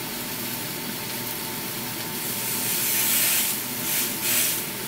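Burger slider patties sizzling on a hot griddle, a steady frying hiss that surges louder a few times in the second half.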